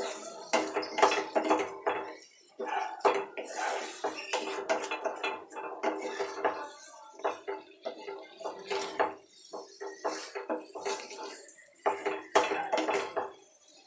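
Spatula scraping and clattering against a cooking pan in irregular strokes as chicken in thick masala is stirred and fried down.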